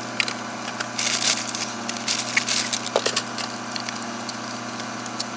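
Crinkling and clicking of grocery packaging being handled and put away, a cluster of sharp crackles about a second in and more around two to three seconds, over a steady low hum.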